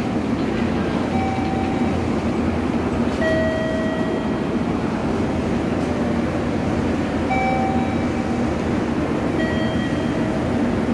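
Railway platform ambience: a steady hum and rumble from a train standing at the platform, with a few short electronic beeps.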